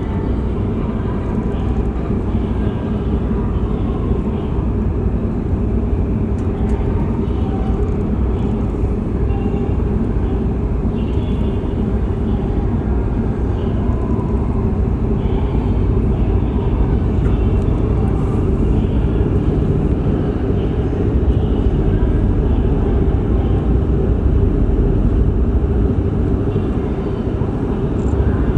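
Steady low rumble and drone of a car ferry's engines running under way, unchanging in level.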